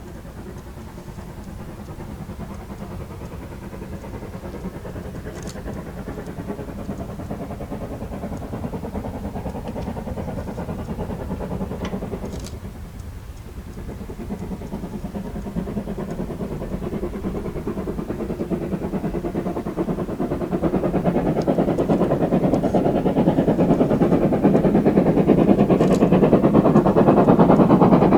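Steam locomotive approaching under power, its rapid chuffing growing steadily louder with a brief dip about halfway through.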